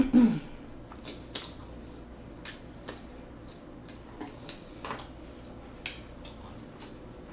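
Eating sounds during a noodle mukbang: scattered short clicks of a utensil against a dish, with chewing. A louder, brief low sound falling in pitch comes right at the start.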